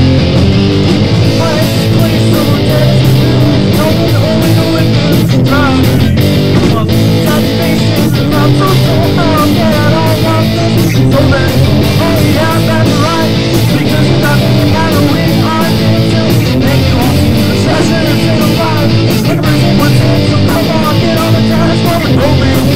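Rock band playing live: guitar lines over bass and drums with a steady beat, and no vocals prominent.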